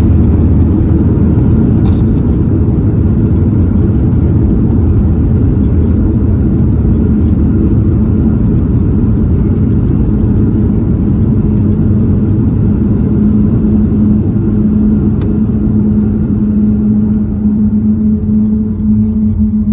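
Boeing 737 MAX 9 airliner rolling and slowing on the ground after landing: a loud, deep rumble that gradually eases. About two-thirds of the way through, a steady hum comes in and grows stronger.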